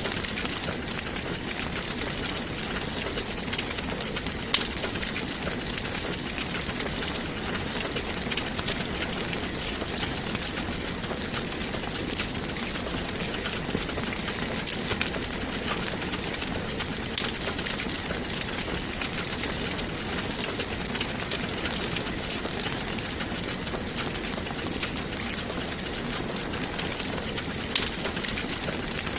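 Wood fire burning in a fireplace: a steady rush of flames with constant small crackles and an occasional louder pop.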